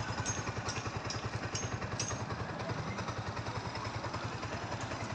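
Yamaha R15's single-cylinder four-stroke engine idling steadily, with an even, rapid low pulse and a few faint light ticks. The idle follows a valve clearance adjustment meant to cure an uneven engine sound.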